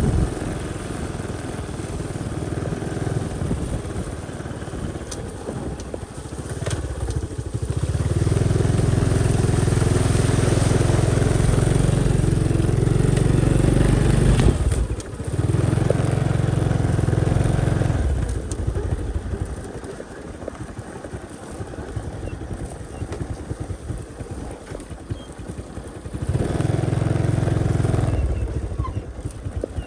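Motorcycle engine running while riding. It pulls harder for long stretches and eases off in between, with a brief dip about halfway through.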